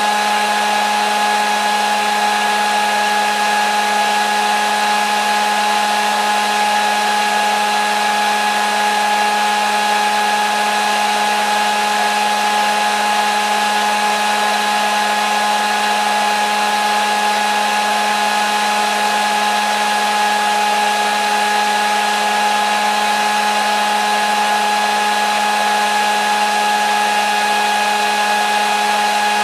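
Hair dryer running steadily: an even rushing of air over a constant motor hum with a few fixed whining tones, no change in speed.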